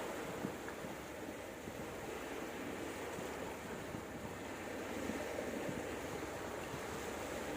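Sea waves washing on a beach, a steady, fairly quiet rush of surf.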